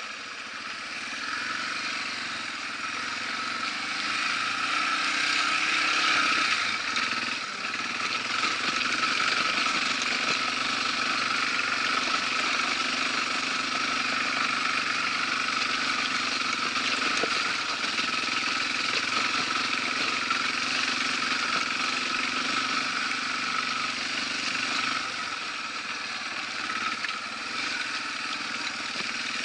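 Yamaha TW200 motorcycle's single-cylinder engine running steadily while the bike rides along a gravel track. It grows louder over the first few seconds, then holds an even drone.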